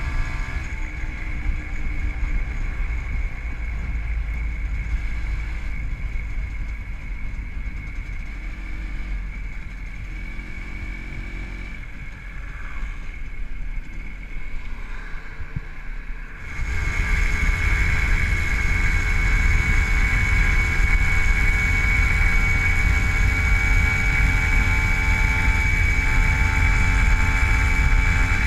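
WSK 125's single-cylinder two-stroke engine, fitted with a Dell'Orto PHBG carburettor and CDI ignition, running while the motorcycle is ridden. It is quieter for the first part, then gets suddenly louder about two-thirds of the way in and stays steady.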